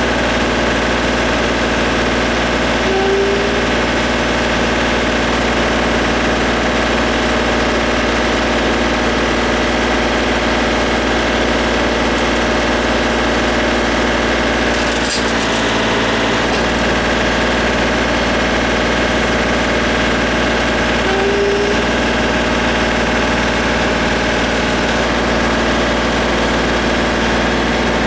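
Diesel engine of a John Deere compact tractor-loader-backhoe running steadily at constant speed, with a brief click about halfway through.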